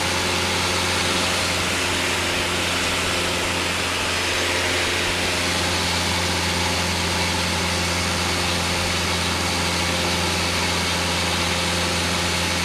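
Light single-engine propeller plane's piston engine running steadily in level cruise flight, an even, unchanging drone.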